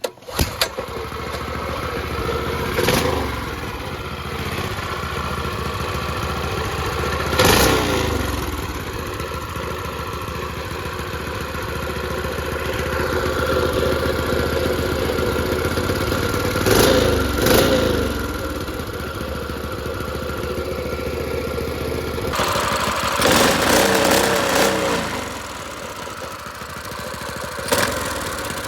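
Predator 212 single-cylinder four-stroke engine on a minibike, fitted with a PWK 24 mm carburetor, running steadily. The throttle is blipped briefly several times, with a longer rev a little past two-thirds of the way through.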